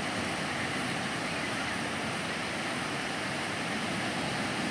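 Steady wash of ocean surf from waves breaking on a sandy beach.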